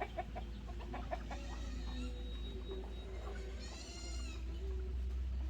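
Chickens clucking and calling: a quick run of short clucks at the start, scattered calls, and one longer high call about four seconds in, over a steady low hum.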